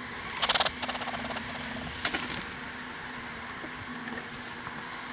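Honey bees buzzing around an open hive, a steady hum that fades in and out. Two brief crackly rasps cut in, about half a second in and about two seconds in.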